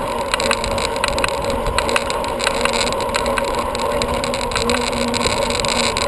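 Steady wind and road noise from a moving bicycle, picked up by the camera riding on it. A faint steady hum runs underneath, and there are sharp little ticks every fraction of a second.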